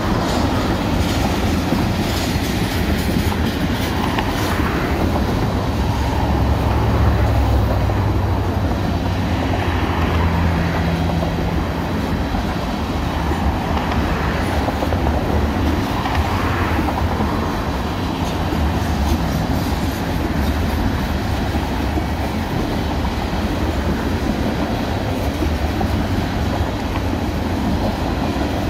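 Freight train of ethanol tank cars rolling steadily across a trestle bridge: a continuous heavy rumble of steel wheels on rail, with clickety-clack as the cars pass.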